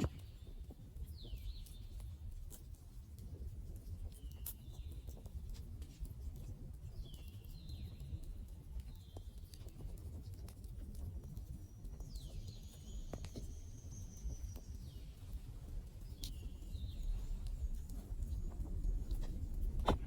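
Campfire crackling, with scattered sharp pops over a low steady rumble. Birds call in short falling chirps throughout, with one longer high call about twelve seconds in.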